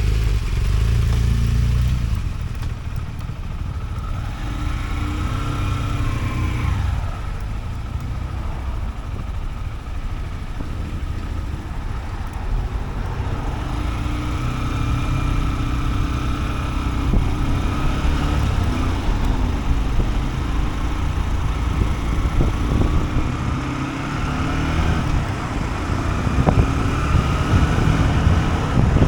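Honda CB125F's small single-cylinder engine running under way, its note rising and falling with the throttle several times, over heavy low wind rumble on the microphone.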